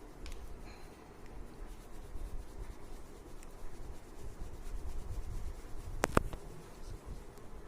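Crayon rubbing back and forth on paper while colouring in, with two sharp clicks close together about six seconds in.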